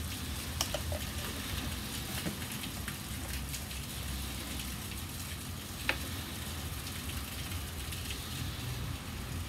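Heavy rain falling outside, heard as a steady hiss, with a few light clicks near the start and about six seconds in.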